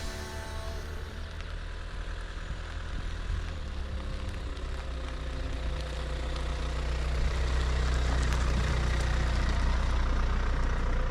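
A vehicle's engine running with a steady low rumble, growing louder about six to seven seconds in.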